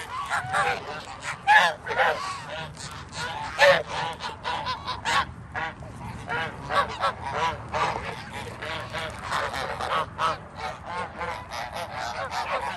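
A flock of geese honking constantly, many calls overlapping, with a few louder honks in the first few seconds.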